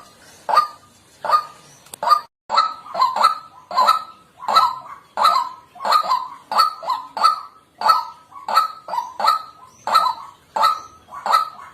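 White-breasted waterhen giving its harsh, honking kwak calls over and over, about two a second, coming faster after the first couple of seconds.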